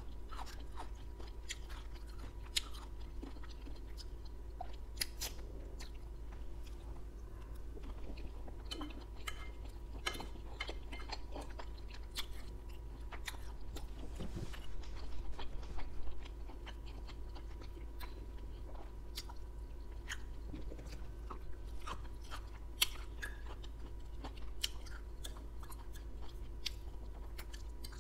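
Close-miked chewing and mouth sounds of a person eating beef and broccoli Chinese food, with scattered sharp clicks of a fork against the plate. The chewing grows louder for a couple of seconds around the middle, over a steady low hum.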